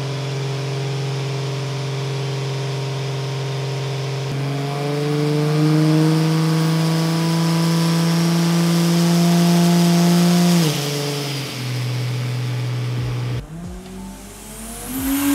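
Turbocharged Barra inline-six in a VC Commodore running on a chassis dyno, held at steady engine speeds. The pitch steps up about four seconds in, creeps higher, drops about ten seconds in, then breaks off briefly and climbs again near the end.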